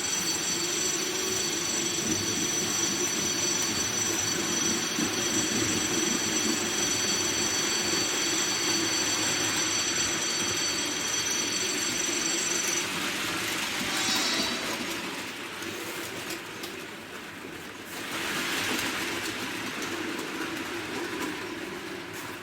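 HO-scale model train running along the track, with a steady rolling rumble of wheels on rail and a steady high-pitched whine that stops about two-thirds of the way through. The noise fades a little, then swells again near the end.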